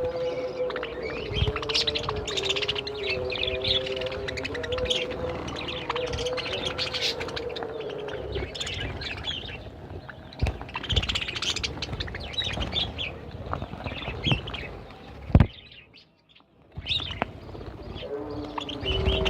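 A flock of budgerigars chirping and chattering continuously in an aviary, with scattered clicks. A low steady drone runs under the chirping for the first eight seconds or so, and the sound drops out almost completely for about a second near the end.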